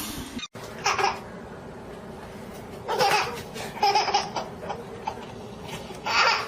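A baby laughing in short bursts, four times over a few seconds.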